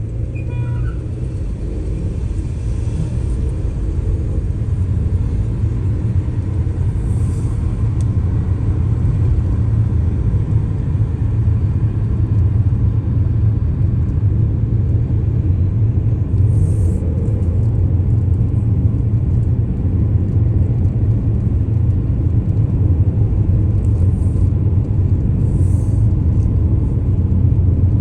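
Car driving: a steady low rumble of road and engine noise that grows somewhat louder over the first several seconds, with a few faint ticks.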